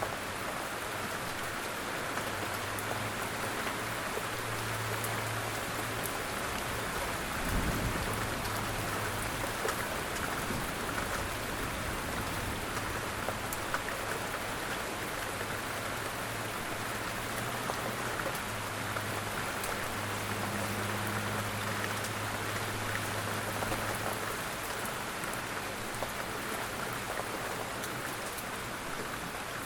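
Steady rain falling on a surface, a constant hiss dotted with fine drop ticks. A brief low thump comes about a quarter of the way in.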